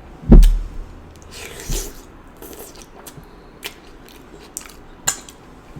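Close-miked eating of a sauce-drenched deshelled seafood boil: a loud low thump about a third of a second in, a wet slurp about a second and a half in, then scattered lip smacks and chewing clicks.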